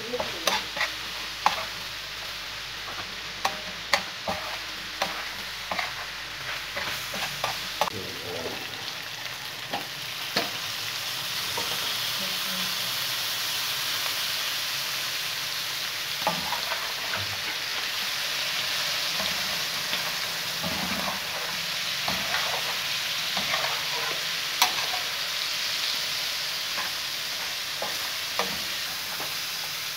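Mutton chops sizzling and frying on a tawa while a metal spatula stirs them, clicking and scraping against the pan. About ten seconds in, the sizzle grows louder and steadier.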